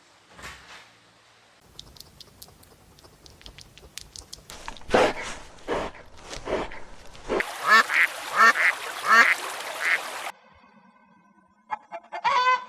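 Ducks quacking in repeated loud calls, in a few short spliced clips that start and stop abruptly.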